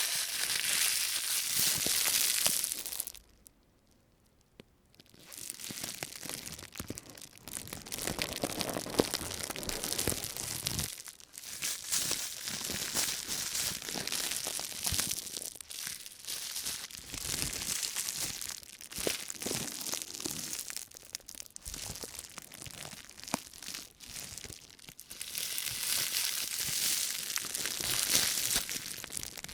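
Thin white plastic shopping bag crinkling and rustling as it is handled and crumpled by hands in rubber gloves. A pause of about two seconds comes a few seconds in.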